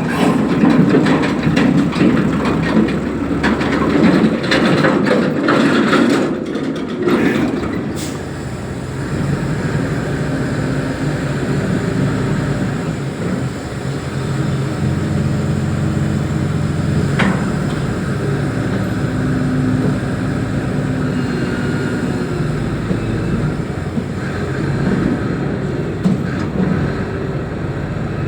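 Reach stacker's heavy diesel engine running, with a dense clatter of knocks and clanks for the first eight seconds or so, then a steadier engine note with an occasional click.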